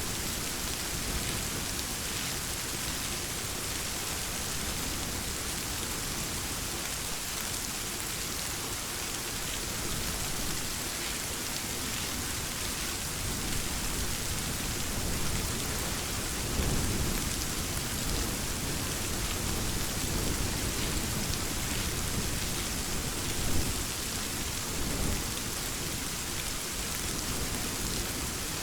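Steady rain falling and pattering on surfaces, with low thunder rumbling through the second half and one brief sharper crack about two-thirds of the way in.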